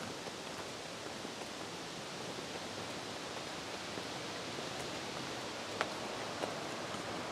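Small waves of Green Bay lapping and washing against a rocky shore in a steady, even wash, with a couple of faint ticks in the second half.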